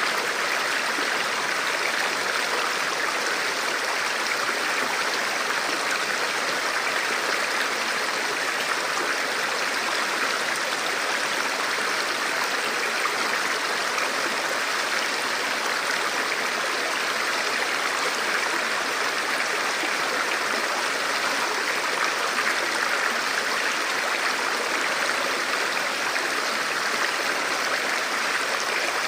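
A river flowing steadily: continuous rushing water over stones, even and unbroken.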